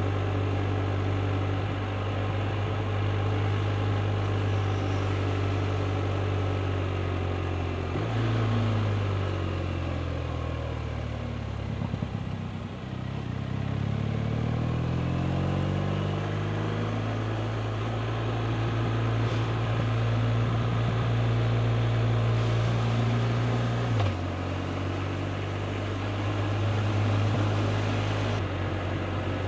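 BMW R 1250 RT's boxer-twin engine running as the bike is ridden. Its note shifts abruptly about 8 seconds in, slides down to a low point in the middle, climbs again, and shifts abruptly once more near the 24-second mark.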